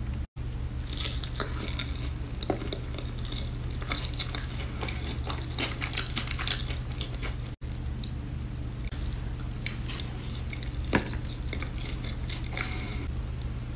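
Close-miked chewing and biting of a sauced, breaded boneless chicken wing: wet mouth sounds with small crunchy clicks, over a steady low hum. The sound drops out briefly twice.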